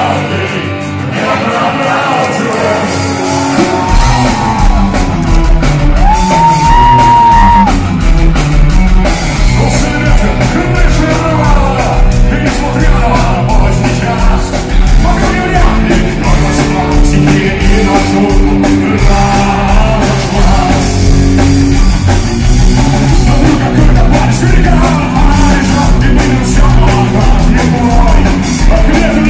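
Rock band playing live with a singer; the bass and drums come in about four seconds in, and the full band then plays on steadily.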